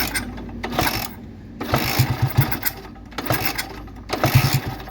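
1962 Motobi 200 Sprite being kick-started: four short bursts of the engine turning over, about a second apart, without it settling into a steady run.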